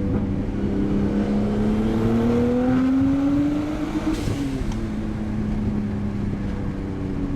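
Straight-piped Nissan RB20 straight-six in an R32 Skyline GTS-t. The revs climb steadily for about four seconds, then drop back and the engine runs on at a steady pitch.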